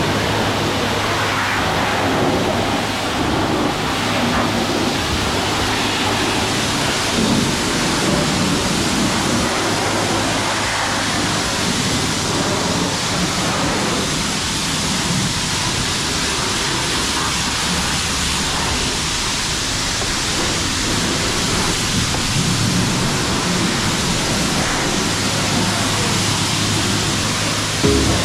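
High-pressure car-wash wand spraying water onto a car: a loud, steady hiss of spray with a low hum underneath that drops out for about ten seconds midway.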